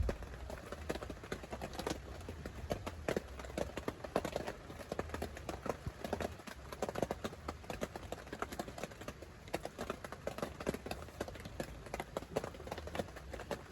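Many irregular knocks and taps in quick succession, with a low rumble beneath.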